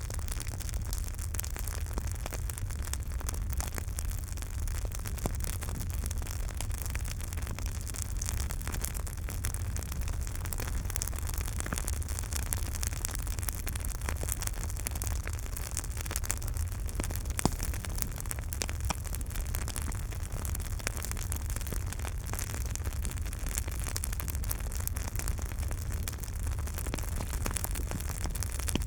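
Campfire burning, with continual fine crackling over a steady low rumble, and one louder pop a little past the middle.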